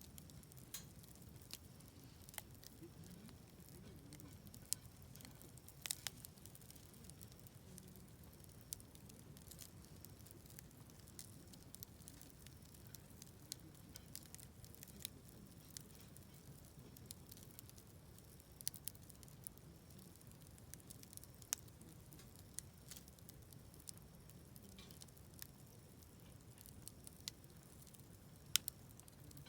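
Wood fire burning in a fire pit, crackling with irregular sharp pops and snaps over a low steady rumble, the loudest pops near the end.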